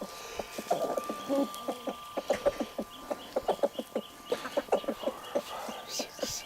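A flock of chickens clucking, with many short clucks in quick succession.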